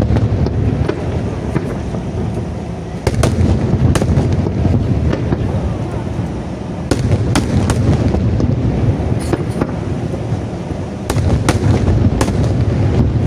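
Daytime aerial firework shells bursting overhead: about a dozen sharp bangs at uneven intervals, over a continuous deep rumble of booms and their echoes.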